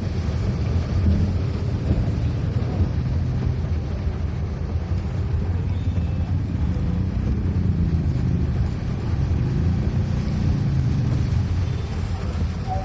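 Car engine and road noise while driving, a steady low rumble.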